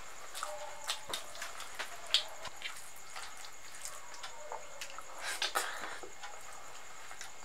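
Close-up wet mouth clicks and smacks of chewing soft khichdi and potato curry, mixed with squelches of fingers mashing the rice on the plate. The clicks are scattered, with a sharp one about two seconds in and a cluster of smacks about five and a half seconds in, over a steady faint hiss.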